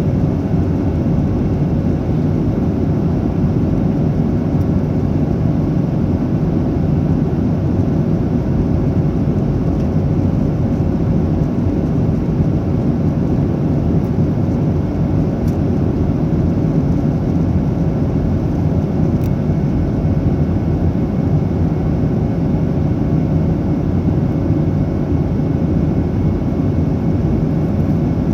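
Steady cabin roar of a Boeing 737-800 in flight, its CFM56 jet engines and the airflow heard from a rear window seat. There is a constant low rumble with a steady hum riding on top, and it does not change.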